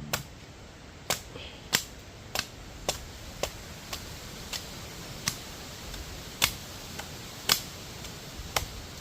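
A green jelly coconut being chopped open with a blade: a dozen or so sharp chops into the husk, spaced about half a second to a second apart.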